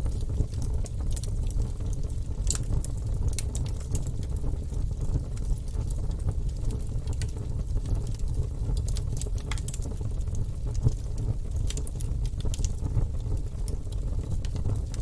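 Log fire burning in a fireplace: a steady low rumble with irregular sharp crackles and pops from the burning wood.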